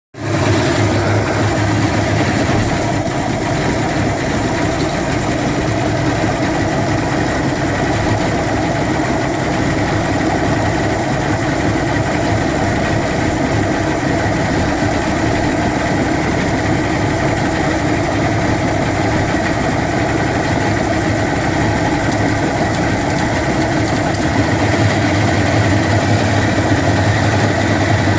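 Johnson 150 hp outboard motor running at a steady speed, with an intermittent rattle coming and going over it about three-quarters of the way through. The rattle first appeared at wide-open throttle and gets louder with higher rpm.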